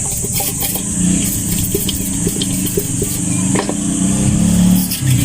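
A motor vehicle engine running, its pitch rising at times, with scattered light clicks over it.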